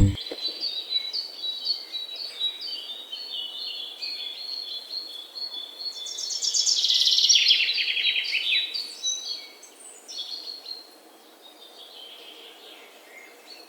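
Small birds chirping and trilling, several overlapping calls, with a louder run of rapid trills about six to eight seconds in and fainter calls near the end.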